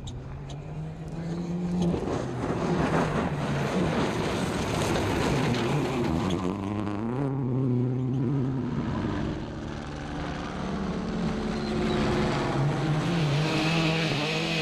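A World Rally Car's turbocharged four-cylinder engine revving hard, its pitch climbing and dropping several times as it changes gear.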